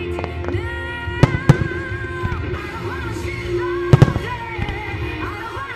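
Aerial firework shells of a starmine display bursting with sharp booms, two close together about a second in and a louder one about four seconds in, over music with long held notes.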